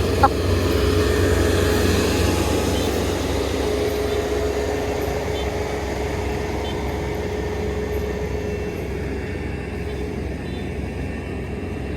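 Kubota ER470 combine harvester running steadily under harvesting load, a constant low drone with a steady hum above it. A single sharp click comes just after the start.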